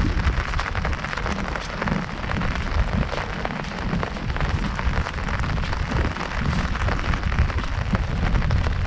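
Heavy rain falling on an umbrella overhead: a dense, steady patter of countless small drop impacts, with an uneven low rumble underneath.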